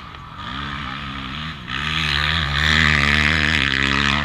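Small single-cylinder four-stroke engine of a 2001 Yamaha TT-R125L pit bike revving under acceleration. Its pitch climbs, dips briefly about a second and a half in, then climbs again and gets louder before it stops abruptly near the end.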